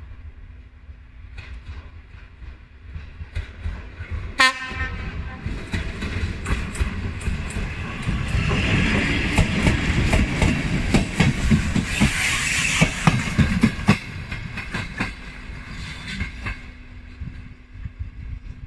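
Electric passenger train on a main line passing close by. Its horn gives one short blast about four seconds in, then the wheels rumble and clatter over the rail joints as the coaches go by, loudest midway and fading near the end.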